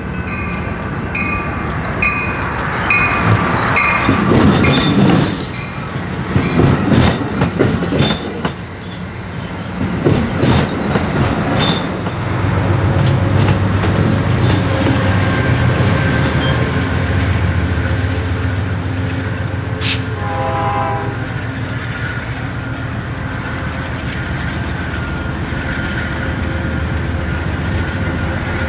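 A train passing. Its wheels clatter over the rail joints, then a locomotive engine gives a steady low rumble. A high ding repeats about twice a second over the first few seconds, and there is a short horn note about 20 seconds in.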